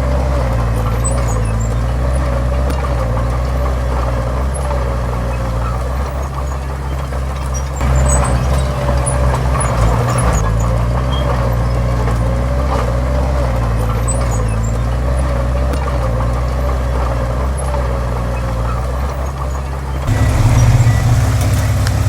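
Heavy diesel engines of earthmoving machinery running steadily under load, with a wavering whine over the engine note. The engine sound swells about a third of the way in and grows louder and deeper again near the end.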